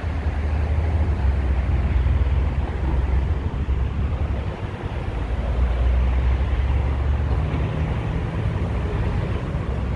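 Steady low rumble of road traffic, with a deeper droning band joining about seven seconds in.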